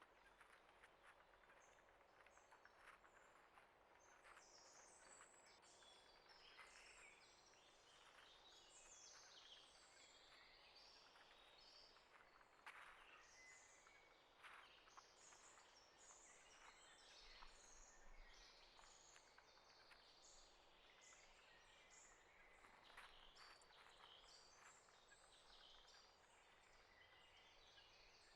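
Faint chirping and twittering of small birds, many short high calls overlapping throughout, over a low steady outdoor hiss.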